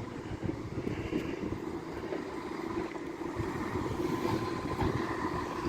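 Class 170 Turbostar diesel multiple unit running at the platform: a steady low rumble from its underfloor diesel engines, with a faint steady whine higher up in the second half.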